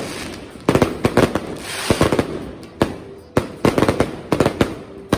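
Fireworks bursting overhead in a quick, irregular run of sharp bangs, several a second at times, with crackling hiss trailing some of the bursts.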